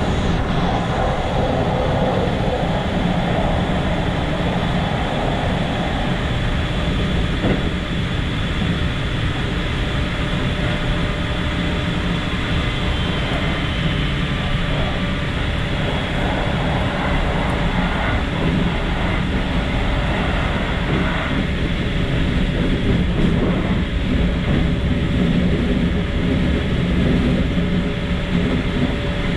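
Keikyu commuter electric train running on the rails, heard from the cab: a steady rumble of wheels and car body with thin steady whining tones over it.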